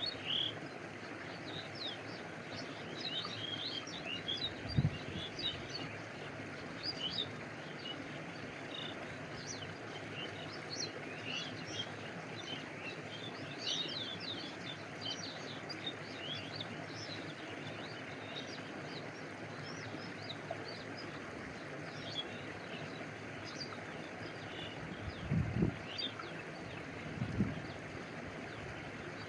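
Stream flowing steadily with water lapping close by, a few low gulping sloshes about five seconds in and twice near the end. Small birds chirp in short high notes throughout.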